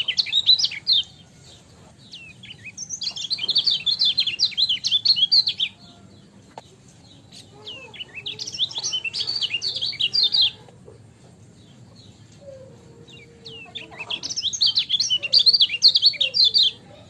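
Kecial kuning (a white-eye) singing in four bouts of fast, high twittering chatter, each a few seconds long with short pauses between. Fainter, lower calls come in between the third and fourth bouts.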